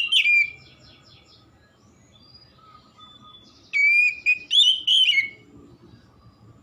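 Oriental magpie-robin (kacer) singing loud whistled, sliding song phrases, with a short burst at the start and a longer one about four seconds in. Fainter notes come between the phrases.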